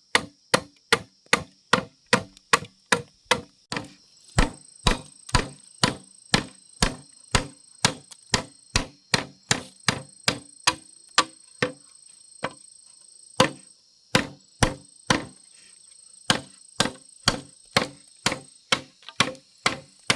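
Rapid, evenly paced chopping with a blade, about three strokes a second, breaking off briefly about two thirds of the way through before resuming. Insects, cicadas or crickets, buzz steadily behind it.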